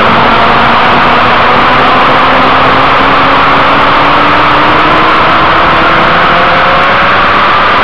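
Sport bike's inline-four engine running at speed, its pitch rising steadily through the second half as it accelerates, under heavy wind rush on the onboard microphone.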